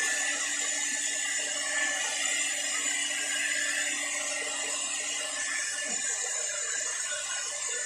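Nikai hair dryer running steadily: a constant blowing hiss with a high, even whine.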